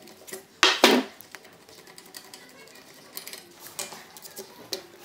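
Metal tools and engine parts clinking and clicking on a workbench: two sharp clanks just under a second in, then scattered light ticks.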